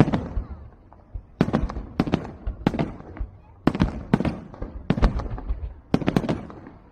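Fireworks going off: a rapid string of sharp, separate bangs, each with a short crackling or echoing tail, spaced about half a second to a second apart.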